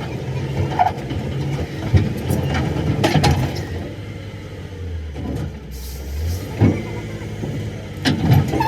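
An engine running with an uneven low rumble, and scattered metallic knocks and clanks.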